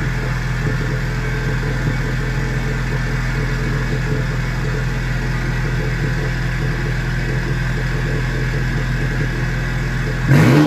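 Ford Focus RS Mk3's turbocharged 2.3-litre four-cylinder idling steadily and rowdy through a straight-piped exhaust with the muffler removed, then a short, sharp rev blip right near the end.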